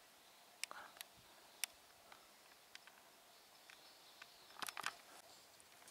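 Near silence in open desert, broken by scattered faint clicks and ticks, with a small cluster of them near the end.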